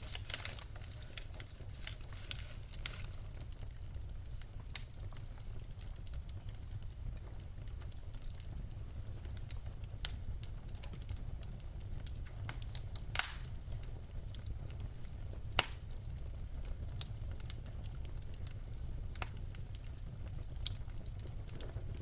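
Wood fire in a fireplace crackling: a steady low rumble of the flames with scattered sharp snaps and a few louder pops from the burning logs.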